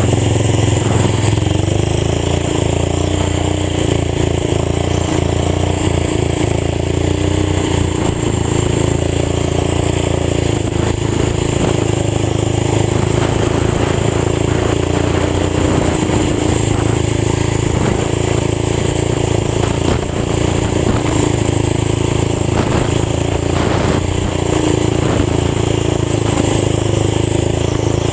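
Old tractor engine running through an open exhaust pipe with no muffler: a loud, steady note whose pitch wavers only slightly.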